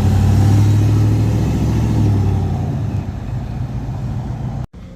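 Car engine running with a steady, loud low drone, easing off after about two seconds; the sound cuts out abruptly near the end.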